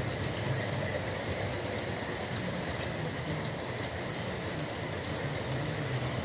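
Bachmann G scale 4-6-0 model locomotive running steadily around the track hauling a long 17-car train: an even hum and rumble of the drive and the wheels on the rails.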